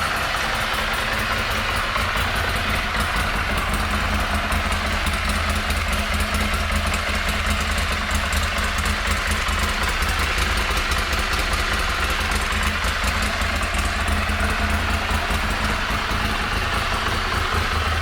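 2009 Ducati Monster 696's air-cooled L-twin engine idling steadily.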